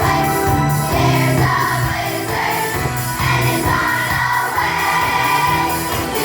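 Junior choir singing with musical accompaniment and a jingle-bell rhythm.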